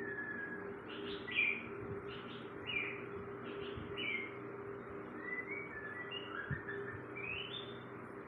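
A caged songbird beginning to sing: a loose series of short chirps and whistled notes, many sliding down in pitch, over a steady low hum.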